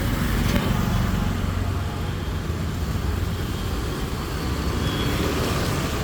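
Road traffic: a steady rumble of passing cars along the street.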